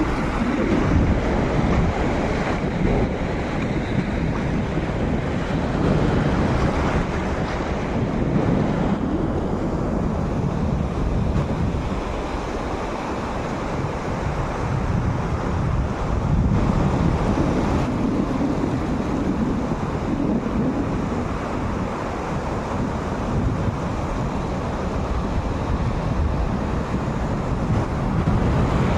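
Sea waves washing onto a beach, a steady rush that swells and eases slowly, with wind buffeting the microphone.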